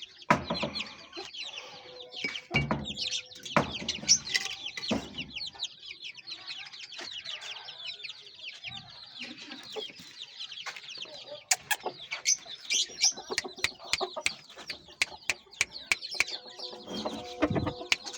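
Chickens clucking and peeping, with many quick falling chirps throughout, several low thumps and a run of sharp clicks in the second half.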